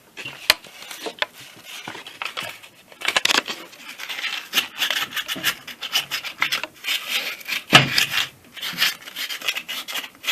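Sandpaper scrubbing back and forth on the metal gasket face of an air compressor, removing the remains of the old gasket before sealing with silicone. A few light scrapes at first, then quick, steady rubbing strokes from about three seconds in.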